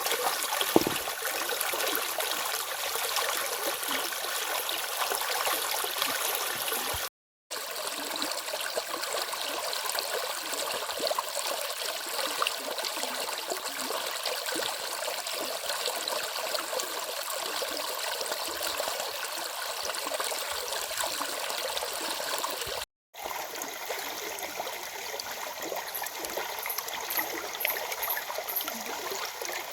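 Stream flowing steadily with a rushing, splashing hiss. The sound cuts out completely twice for a split second.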